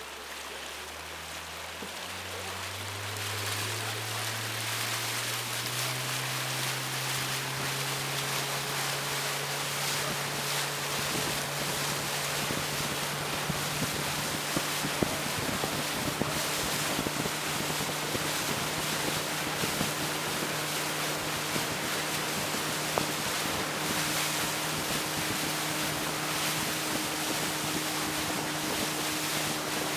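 A tour boat's motor speeding up, its pitch rising over the first several seconds, then running steadily at cruising speed. Water rushes past the hull and wind buffets the microphone throughout.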